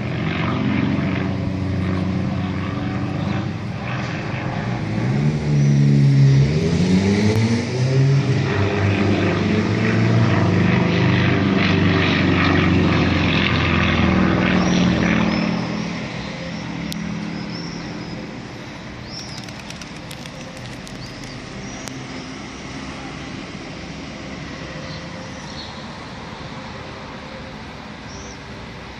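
Propeller engines of light aerobatic planes flying overhead. The engine note climbs in pitch as they come in, holds loud for several seconds, then falls away sharply about halfway through, leaving a fainter engine hum.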